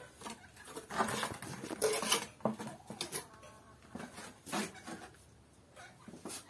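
Irregular light scraping and clinking of a mason's trowel working refractory mortar onto freshly laid bricks.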